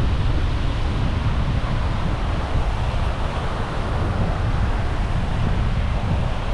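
Wind buffeting the microphone as a dense, uneven low rumble, over the steady wash of sea surf.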